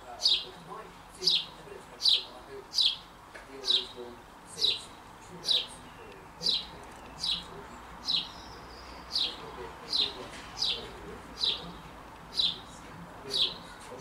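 A small songbird chirping steadily, a single short falling note repeated about once a second.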